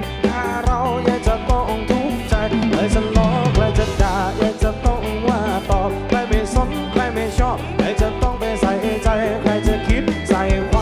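Live band music: a steady drum-kit beat under a melody line that bends and wavers in pitch.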